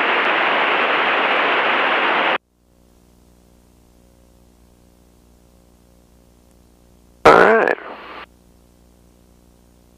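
Steady hiss of light-aircraft cabin and engine noise heard through the headset intercom, which cuts off abruptly about two seconds in and leaves only a faint electrical hum.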